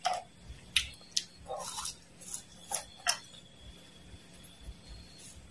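Close-miked crunchy chewing of fried dried worms and mole crickets: sharp crisp crackles several times in the first three seconds, then only a few faint ones.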